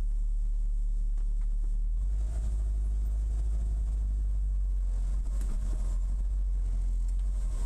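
Lotus Elise S1's Rover K-series four-cylinder engine running at low speed, heard from inside the cabin as a steady low rumble. About two seconds in, the engine note gets heavier as the car creeps forward.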